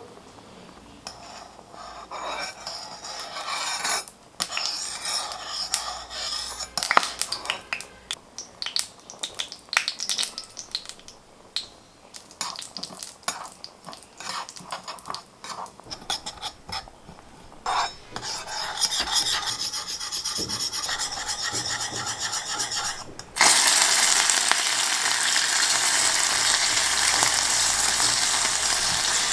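Small kitchen utensils clicking, rubbing and scraping in a miniature pan or dish, with short pauses between strokes. Near the end, food goes into hot oil with a sudden loud sizzle that keeps frying steadily.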